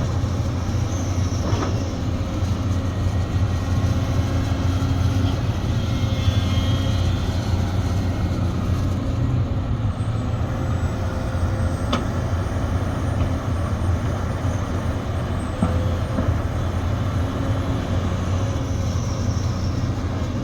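Diesel engine of a Sumitomo SH370LHD-6 excavator running steadily with a deep drone, with a few short sharp clicks or knocks.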